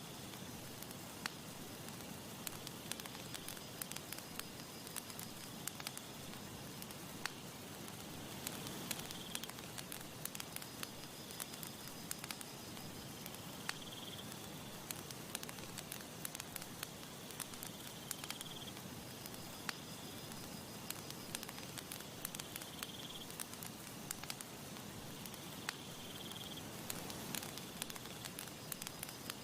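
Campfire crackling, with frequent sharp pops and snaps over a steady hiss. A short high chirp repeats about every four to five seconds behind it.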